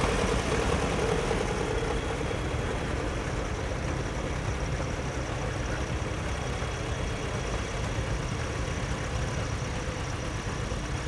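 Antique tractor engines running steadily, a continuous low drone.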